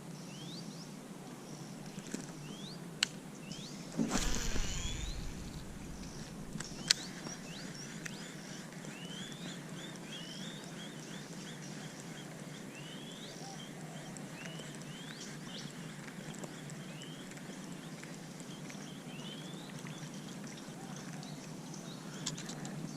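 Outdoor ambience with many short rising animal chirps repeated throughout, over a steady hiss. There is a sharp click about three seconds in, a louder low thump with a rustle about four seconds in, and another click about seven seconds in.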